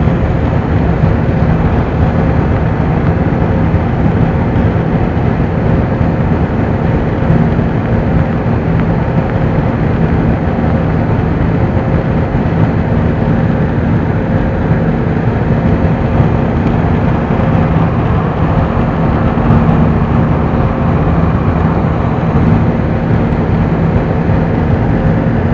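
Steady cabin noise of an airliner in flight: an even rushing drone, with a low steady hum underneath.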